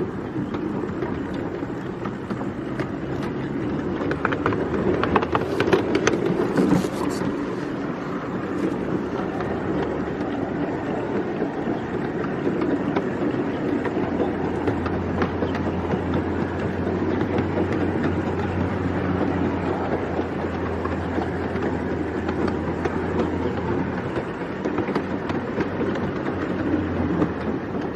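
A 5-inch gauge miniature railway train running along its track, heard from aboard: a steady rumble and rattle from the wheels and cars. A cluster of sharp clicks comes about five to seven seconds in, and a steady low hum joins about halfway through.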